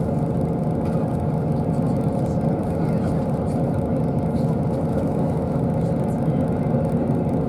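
Bus engine and road noise heard from inside the cabin: a steady drone with an even low hum, no sudden sounds.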